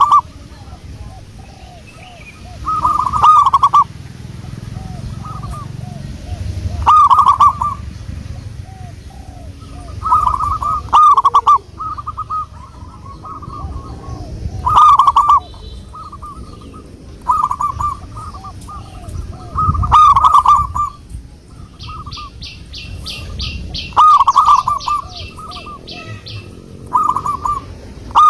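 Zebra doves (perkutut) cooing, a loud phrase repeated every three to four seconds with softer call notes between. A rapid run of high ticks comes in about two-thirds of the way through.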